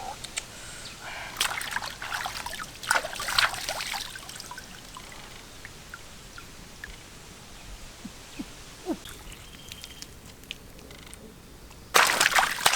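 Shallow water sloshing and trickling, with bouts of louder splashing from about a second and a half in to four seconds in, and again, loudest, near the end.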